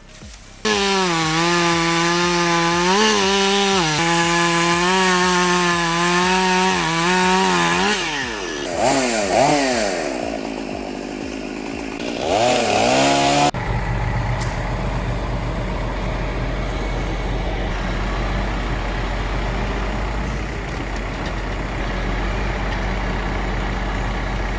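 Two-stroke chainsaw running at full throttle, its pitch dipping now and then as it cuts. It then revs down and up in sweeping glides. About thirteen seconds in it cuts off abruptly to a different steady, low, humming noise.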